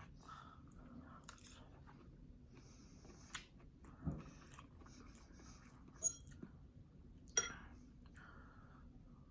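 Close-miked chewing of pancit bihon rice noodles, soft mouth sounds with four short sharp clicks spread through the middle, the loudest near the end.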